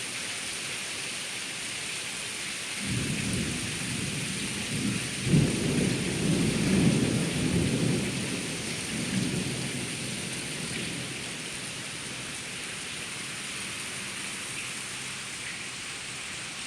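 Steady heavy rain hissing throughout a summer thunderstorm. A low rolling rumble of thunder comes in about three seconds in, jumps louder around five seconds, and dies away by about ten seconds.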